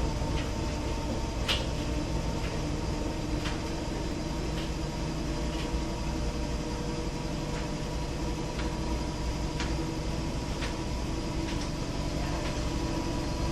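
Frigidaire front-loading washer spinning: a steady hum with a sharp tick or knock about once a second. The owner does not know the cause of the noise.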